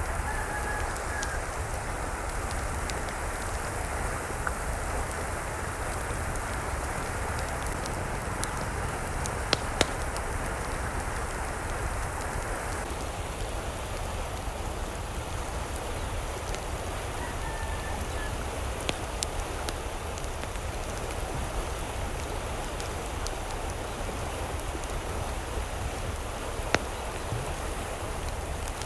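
Steady rain falling, with a few sharp drip clicks and a couple of faint short chirps, once near the start and again a little past halfway.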